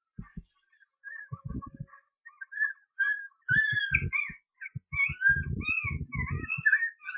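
Bird-like chirping and whistling: a run of short chirps that glide up and down, sparse at first and busier from about three seconds in, over a series of short low thumps.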